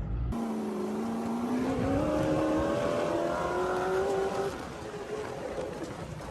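Sand rail engine, said to make about 800 horsepower, pulling hard under acceleration, its pitch climbing steadily for about four seconds. It then eases off and drops in level near the end.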